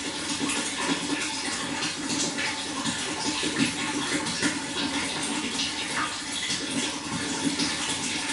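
Running water: a steady, splashing flow that does not let up.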